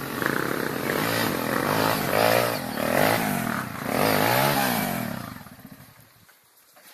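Trail motorcycle engine revving in about three rising and falling surges, then fading away near the end.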